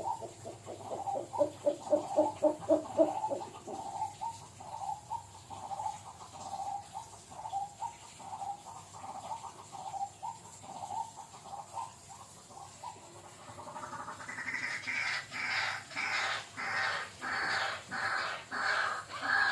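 A bird calling. It opens with a rapid stuttering run of low notes for the first few seconds, then a quieter string of repeated notes. From about two-thirds in comes a regular series of higher, harsher calls, about two a second.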